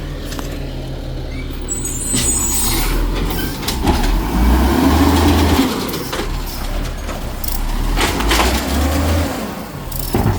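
Garbage truck's diesel engine revving hard to drive the hydraulic packer on the trash, swelling twice, with clanks and a short air-brake hiss.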